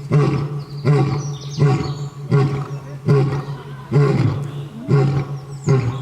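Lion roaring in a rhythmic series of short, grunting calls, about one every three-quarters of a second.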